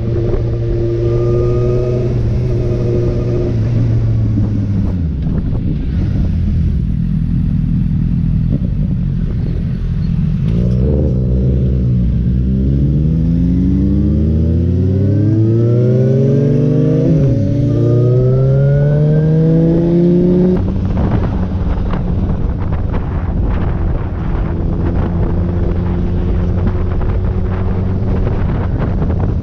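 Motorcycle engine running, dropping in pitch a few seconds in, then revving up repeatedly in rising sweeps through the middle, each ending in a drop, like accelerating up through the gears, and settling to a steady drone for the last third.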